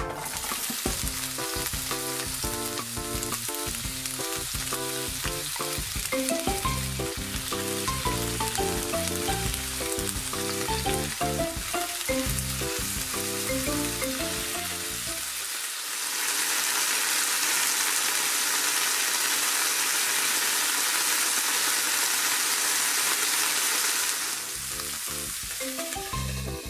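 Chopped green peppers and tuna sizzling in oil in a frying pan and being stirred. Background music plays over the frying for the first half, stops, and comes back near the end.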